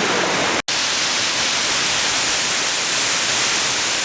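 Waterfall rushing as a steady loud hiss, broken by a split-second dropout about half a second in, after which the noise is brighter and more hissy.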